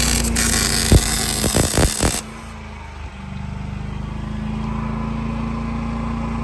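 Welding arc crackling and hissing for about two seconds, with a few sharp pops, then cutting off suddenly. A steady low machine hum runs underneath and carries on after the arc stops.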